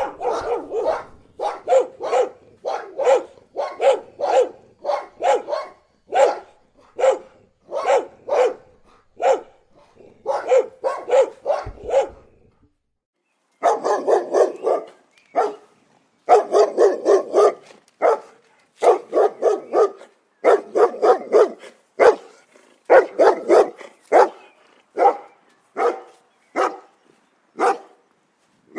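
A dog barking over and over, about two barks a second, with a brief pause about halfway through.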